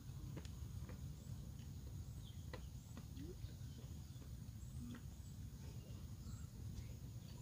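Soft mouth sounds of a man eating rice and fried fish with his hands: scattered short clicks and smacks of chewing, over a steady low outdoor rumble.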